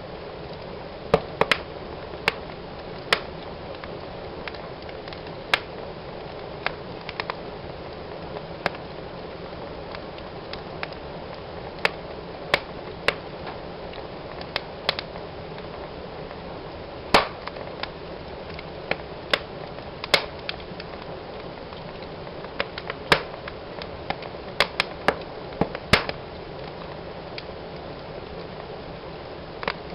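Wood fire burning in a fireplace, crackling and popping at irregular intervals over a steady hiss of flames, with one louder pop about two-thirds of the way through.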